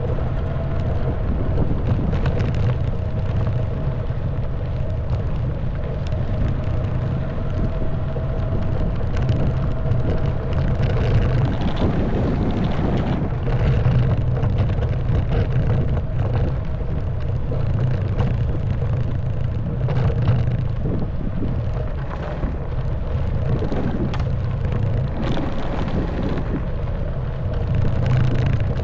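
Honda Wave 110cc single-cylinder four-stroke motorbike engine running at a fairly steady speed, with wind on the microphone. Frequent short knocks and rattles come from the bike riding over a stony track.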